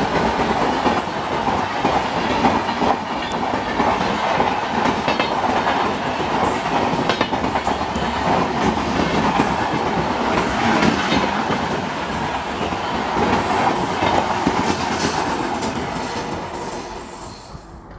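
A train running past on the track, its wheels clattering over rail joints with scattered sharp clicks in a steady, loud rumble that fades over the last couple of seconds.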